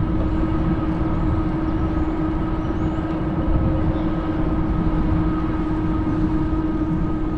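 Fat-tire electric bike riding steadily: a constant whine from the drive and tyres over a dense low rumble of wind and rolling noise.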